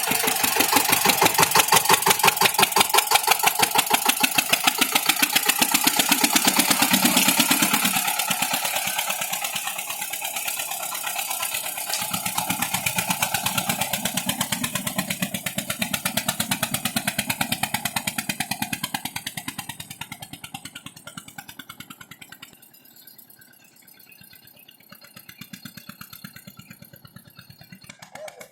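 Mahindra 235 DI tractor's diesel engine running with a steady rapid chug. It is loud in the first half, then fades to faint over the last several seconds.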